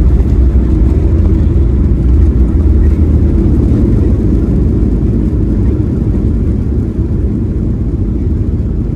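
Boeing 737 MAX airliner heard from inside the cabin during landing: a loud, steady low rumble of engines and airflow, easing slightly about six seconds in.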